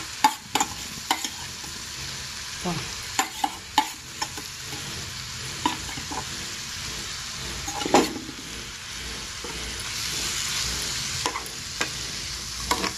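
Moong dal, vegetables and fresh moringa leaves sizzling steadily in a frying pan, with scattered short clicks and scrapes of a ladle against the pan as the mixture is stirred. The hiss grows louder about ten seconds in.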